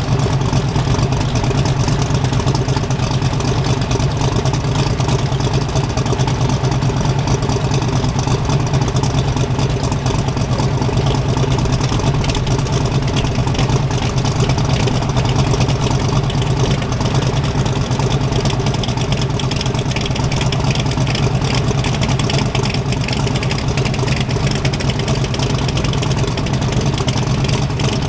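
Turbocharged Mustang no-prep drag car's engine idling loudly and steadily, with a choppy, rapid exhaust pulse.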